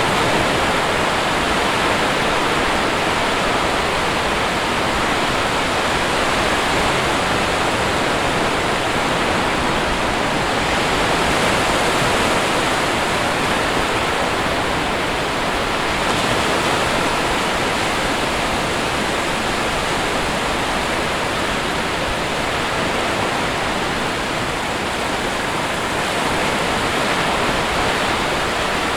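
Sea surf: a steady, unbroken rush of waves, swelling only slightly in loudness.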